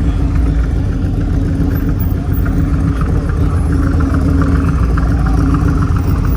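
A car engine running steadily close by, a loud low rumble with no revving.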